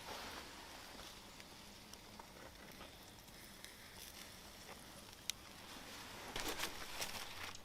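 Steak sizzling on a grill over a campfire, a faint steady hiss with scattered small crackles and pops, growing louder for about a second near the end.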